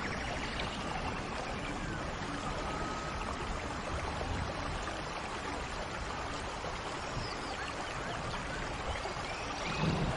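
Heavy rain falling in a steady, dense hiss, with a few faint high chirps over it. A low rumble begins to swell near the end.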